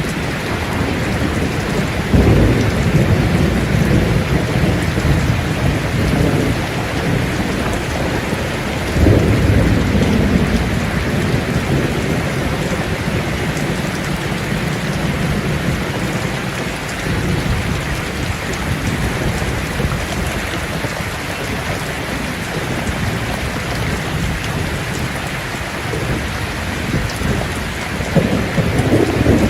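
Steady heavy rain falling, with low rolls of thunder: one rumbling in about two seconds in, another around nine seconds, and a third near the end.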